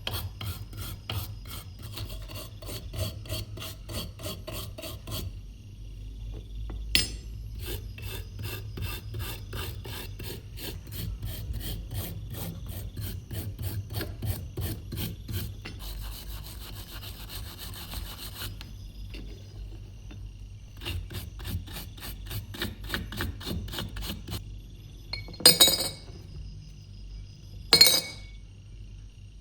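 Hand filing on a metal knife blade: rapid back-and-forth rasping strokes, about four a second, in runs of several seconds with short pauses. Near the end come two sharp knocks.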